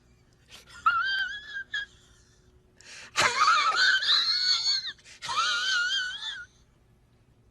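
Meme sound-effect clips of high-pitched, wavering squeals: a short one about a second in, then a louder strained, noisy wail that starts suddenly about three seconds in, then another wavering squeal just after five seconds.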